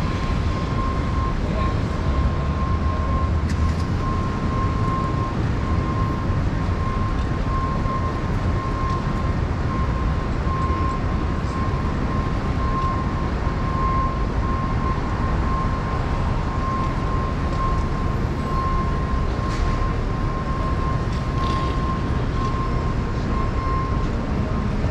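Steady, loud rumble of city noise, with a continuous high tone a little above a kilohertz that cuts off shortly before the end.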